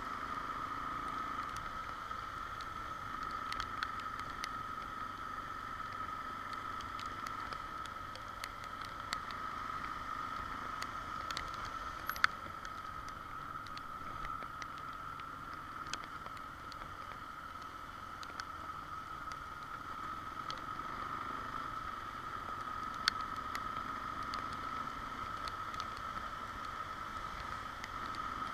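XR Tornado motorcycle being ridden, heard from the rider's microphone: steady wind and road noise with the engine running low underneath, and scattered sharp ticks.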